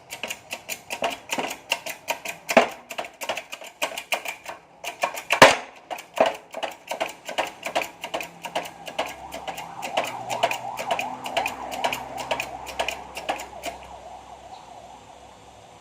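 Hand tools working on a Honda Vario 125 engine during its teardown: a rapid, irregular run of sharp metallic clicks and taps, with one louder knock about five seconds in, tailing off near the end.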